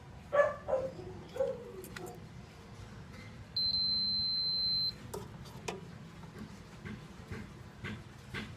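A single steady high-pitched electronic beep lasting just over a second, about halfway through, typical of a multimeter's continuity beeper. Around it are light clicks and handling noise, with a short louder clatter about half a second in.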